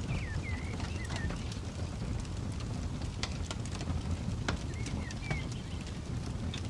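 Campfire wood crackling with scattered sharp pops over a steady low rumble. A bird chirps in short sliding notes at the start and again about five seconds in.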